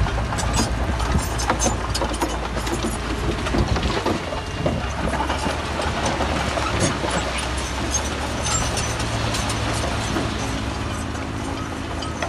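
Heavy diesel earthmoving machinery running, a low steady engine drone with clanking and rattling knocks, densest in the first couple of seconds.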